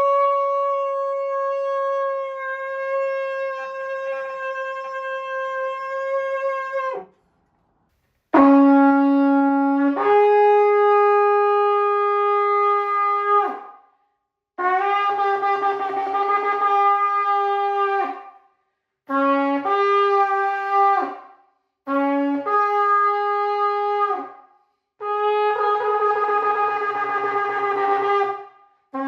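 Shofar (ram's horn) blasts: one long steady blast of about seven seconds, then five shorter blasts, several of which start on a low note and jump up to a higher one.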